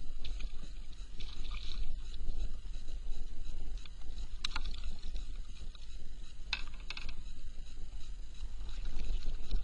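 Water lapping against a fishing kayak's hull, with a steady low wind rumble on the microphone and a few brief ticks about halfway through.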